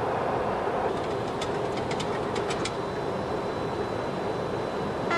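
Steady cockpit noise of a Boeing 737-200 descending: airflow rush and its JT8D engines. A quick run of several clicks comes about a second and a half in.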